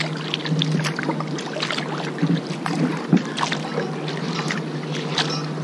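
Kayak paddling: water splashing and dripping off the paddle in quick, irregular splashes, over a steady low hum.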